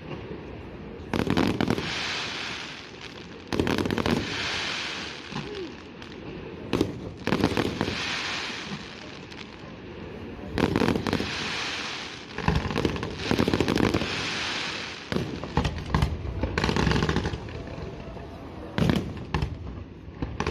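Aerial fireworks display: shells bursting with sharp bangs every second or two, some in quick pairs, with crackling and hissing from the burning stars in between.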